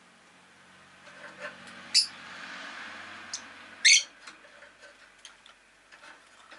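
Rosy-faced lovebird giving two sharp, loud chirps about two seconds apart, with a few faint clicks. Behind them a passing vehicle swells and fades.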